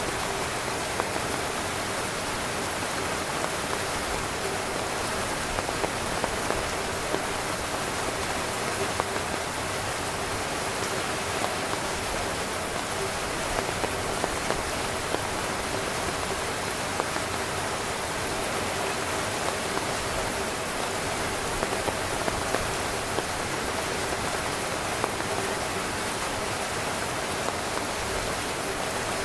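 Heavy rain drumming on a camping tent's fabric: a steady, dense hiss of rain with many individual drop hits.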